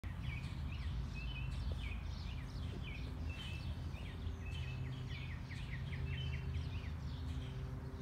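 Small birds chirping in quick runs of short repeated notes, stopping near the end, over a steady low rumble.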